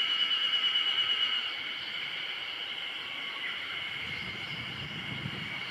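Insects buzzing in a steady, high-pitched chorus that pulses rapidly for the first second and a half. A low rumble comes in about four seconds in.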